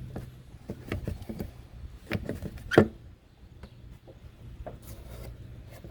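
Scattered plastic clicks and knocks as a windshield washer pump and its hose are worked into the washer reservoir by hand. The loudest knock comes a little under three seconds in, over a faint steady hum.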